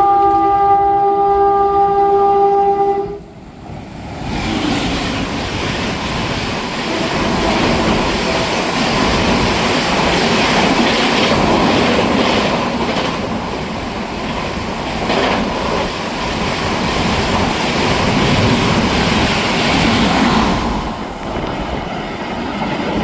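Electric locomotive horn held in one long blast for about three seconds, cutting off sharply. Then a train passing fast, a steady loud rumble with the clatter of wheels over rail joints, fading near the end.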